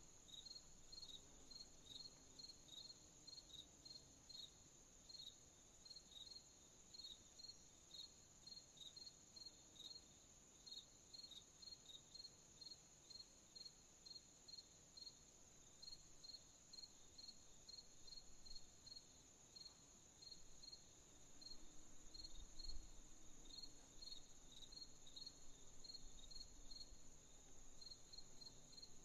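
Faint night chorus of crickets: short chirps repeating at about two a second over a steady, higher continuous insect trill. There is a brief low thump about 23 seconds in.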